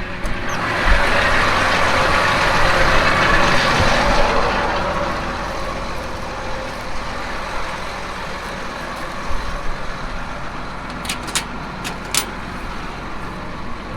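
Tractor engine running steadily, heard from inside the cab, with a louder rushing noise over the first few seconds that dies down. A few sharp clicks come near the end.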